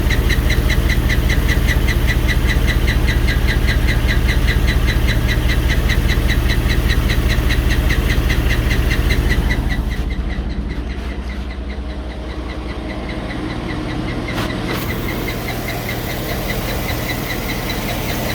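2007 Cadillac Escalade's 6.2-litre V8 idling with a fast, regular ticking of about five ticks a second, which the owner puts down to bad lifters and camshaft noise. About ten seconds in the sound drops and the ticking grows fainter.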